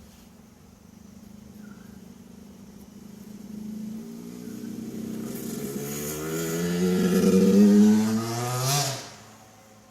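An 85cc two-stroke dirt bike approaching under throttle, its engine climbing in pitch and growing louder, loudest about eight seconds in as it passes close, then falling away sharply just after nine seconds.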